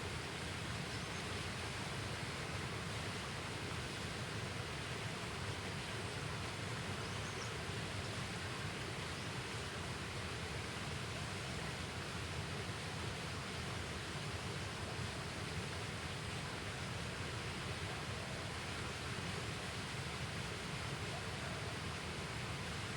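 Steady, even rushing noise of an outdoor setting, unchanging throughout, with no single sound standing out.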